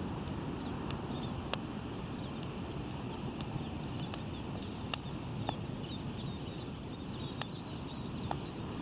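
Wood bonfire crackling, with sharp pops at irregular intervals about every second, over a steady low rumble.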